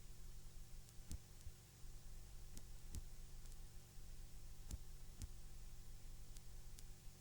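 Faint VHS tape noise: a steady low hum under a thin hiss, broken by several sharp clicks and pops scattered through.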